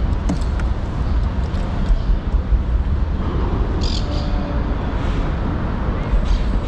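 A bird squawks briefly about four seconds in, with a fainter call near six seconds, over a steady low rumble.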